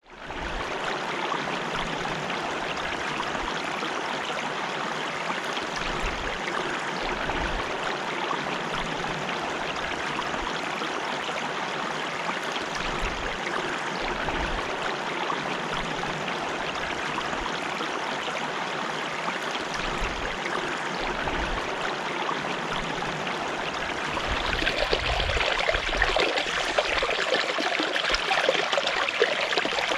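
Steady rush of running water that fades in at the start. About 24 seconds in it becomes louder and brighter, with more splashing.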